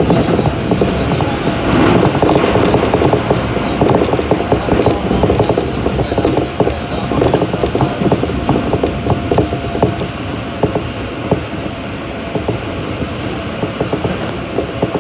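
Keikyu 1500-series electric train running at speed through a subway tunnel, heard from inside the car: loud, continuous wheel-on-rail rolling noise full of quick clicks and rattles, with a faint steady tone from its Toyo GTO-VVVF traction drive underneath.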